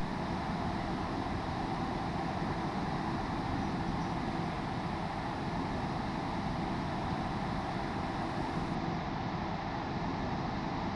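Steady cockpit noise of a Hawker 800XP business jet in flight: airflow and engine noise held at an even level. The highest hiss drops out about nine seconds in.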